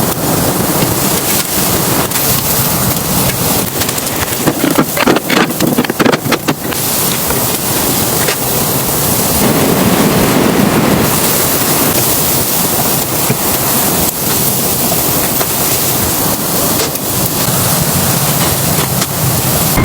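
Strong blizzard wind blowing hard and buffeting the microphone in a steady rush of noise, with a stretch of rapid clattering about four to six seconds in.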